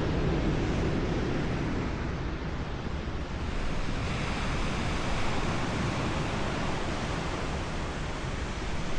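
Steady rush of ocean surf, with some wind.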